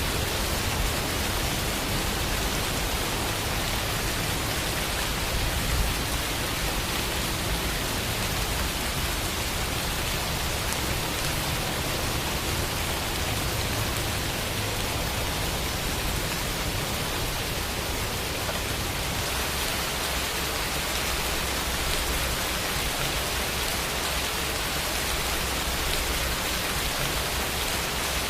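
Steady rain falling, an even hiss of many drops with no other sounds, and one slightly louder drop or splash about six seconds in.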